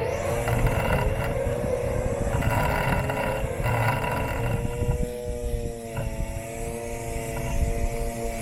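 Robot lawn mower's electric motors whining steadily, heard up close through the body of the machine, with a low rumble and a hiss of cutting. About halfway through the hiss drops away and the whine stands out clearer and steadier.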